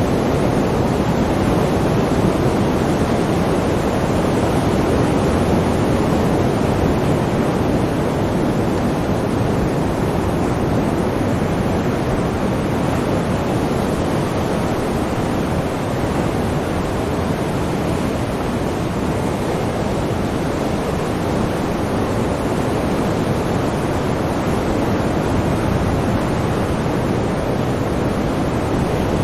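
Sea surf: a continuous, even wash of breaking waves with no distinct single crashes.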